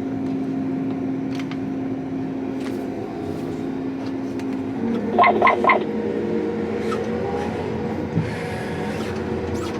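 Vehicle engine running steadily, its pitch changing about five seconds in, followed at once by three short electronic beeps.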